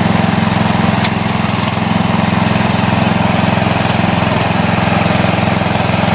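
12.5 hp Briggs & Stratton engine of a riding lawn mower running steadily and evenly at speed, rebuilt with parts from an identical donor engine and running well. A faint click about a second in.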